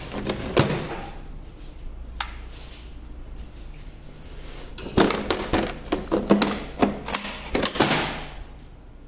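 Makita 18 V lithium-ion battery packs being slid into the DLM530 cordless lawnmower's battery slots, with hard plastic clicks and knocks as they latch into place. A couple of single knocks come first, then a quick run of clicks and knocks over the second half.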